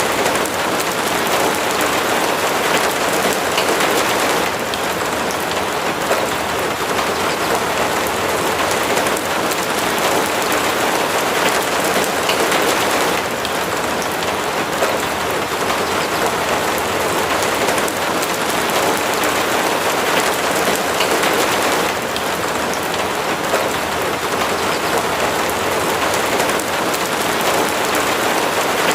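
Steady rainfall, an even patter that swells and eases gently every few seconds.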